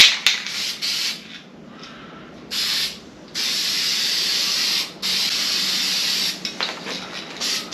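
Aerosol spray paint can spraying a final coat in separate bursts: a short puff, then three longer passes of about a second or more each, the longest two back to back, and a short puff near the end.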